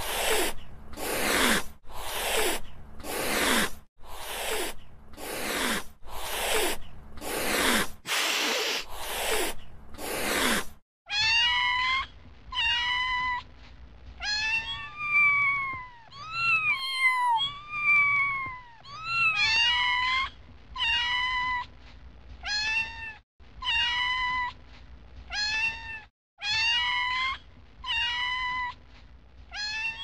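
Domestic cat. First comes a run of about a dozen harsh, noisy calls, each under a second. About 11 seconds in, this gives way to a steady series of high-pitched meows that rise and fall, roughly one a second.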